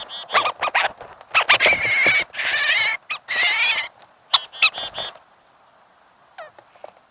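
Birds squabbling at a feeder, a northern flicker against European starlings: a loud run of harsh squawks, screeches and chatter for about five seconds, then it breaks off, with a couple of faint short calls near the end.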